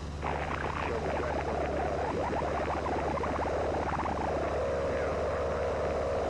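Light aircraft engine droning steadily in the cabin. From about a quarter second in, a louder wavering, fluttering tone comes in over it.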